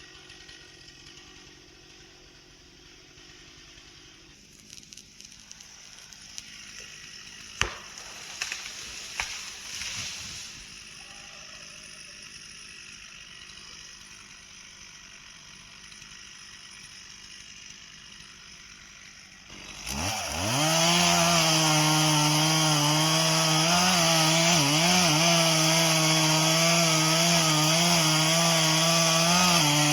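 A few clicks and knocks, then about two-thirds in a two-stroke chainsaw revs up sharply to full throttle and runs at high speed with slight dips in pitch.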